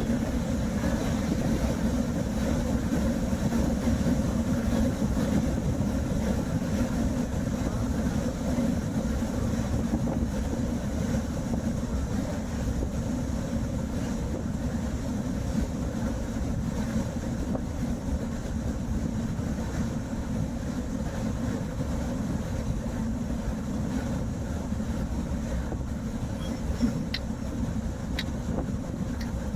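Steady road and engine noise inside a moving car's cabin, with two faint clicks near the end.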